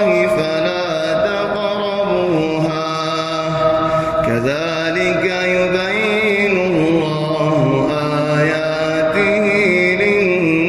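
A solo male voice reciting the Quran in the melodic tajwid style, drawing out long, ornamented notes that glide up and down in pitch, with a new phrase beginning about four seconds in.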